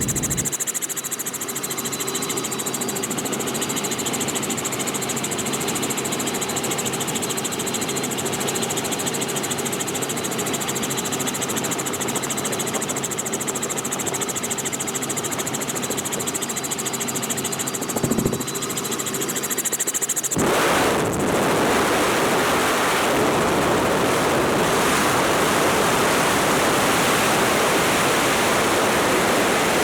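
Robinson R44 helicopter in flight with the doors off: a steady engine and rotor drone with a high whine. Two-thirds of the way through there is a brief knock, then a sudden loud rush of wind noise begins and continues, as when the camera is held out of the open doorway into the slipstream.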